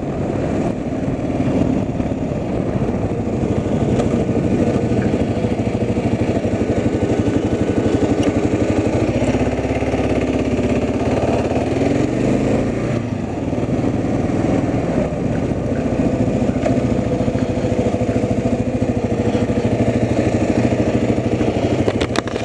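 Vehicle engine running while driving, a steady rumble with the engine note rising and falling for a few seconds around the middle.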